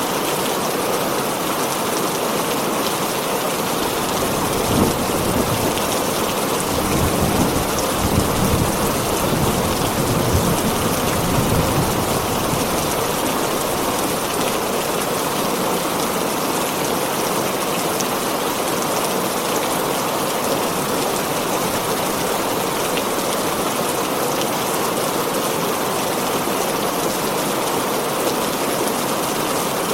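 Heavy rain drumming steadily on a tin roof, with a low rumble of thunder from about four seconds in until about twelve seconds.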